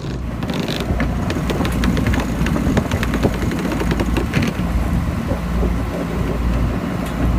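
Low, uneven rumble of wind and water aboard a sailboat under way in strong wind and chop, with scattered clicks and knocks.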